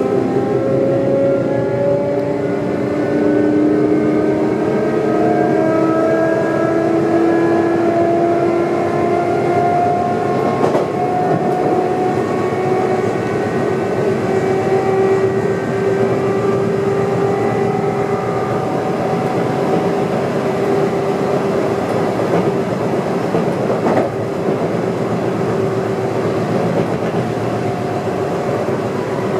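Sotetsu 9000 series electric train under way: the motors' whine climbs in pitch over the first ten seconds as it gathers speed, then holds steady, over a continuous wheel-on-rail rumble. Two sharp knocks come through, about eleven and twenty-four seconds in.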